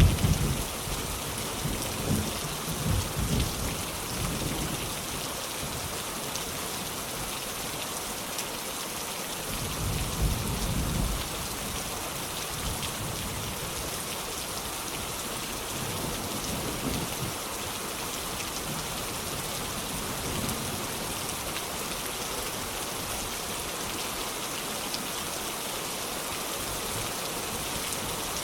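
Heavy rain falling steadily, with rolling thunder: a rumble fading over the first few seconds, another around ten seconds in, and fainter ones later.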